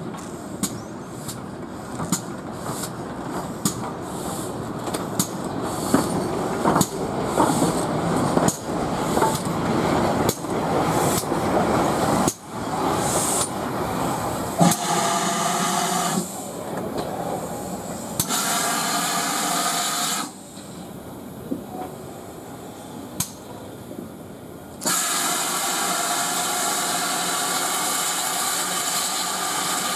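A steam train moving, with repeated knocks of wheels over rail joints for about the first twelve seconds. Then a steam locomotive vents steam in three long, steady hisses, the last starting about 25 seconds in.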